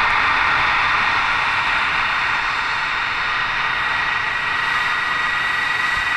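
Electric ducted-fan jet engines of a large RC airliner model running steadily: an even rushing of air with a thin, high, steady whine.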